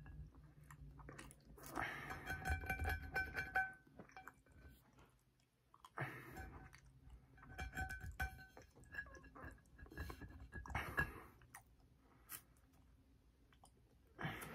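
Close-up chewing and wet mouth sounds of a person eating a soft eclair, in three bouts of a second or two with quiet pauses between; another short burst of mouth noise near the end as he licks his fingers.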